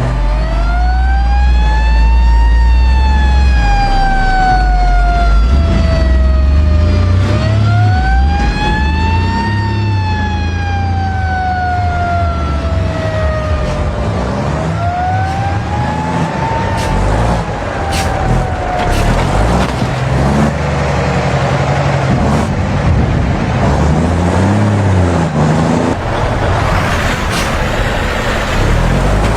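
Wailing emergency-vehicle siren, its pitch rising over about two seconds and falling slowly over about five, three times over, fading out about two-thirds of the way through. Beneath it and after it, heavy vehicle engines and road noise.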